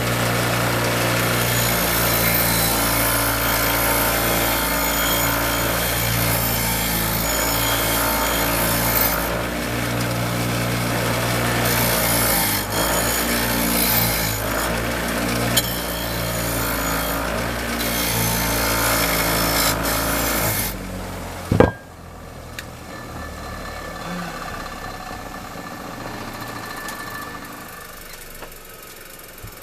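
Electric power tool with a steady motor hum, scouring rust off cast iron. It cuts off about 21 seconds in with a short loud clunk and a quick falling sweep, leaving much quieter sounds.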